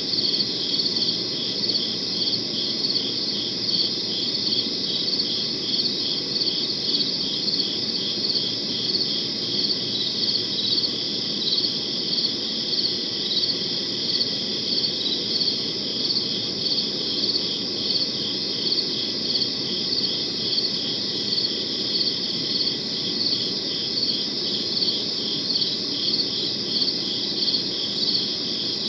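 Crickets chirping in a dense night chorus, rapid high chirps that swell about once a second, over a low steady background noise.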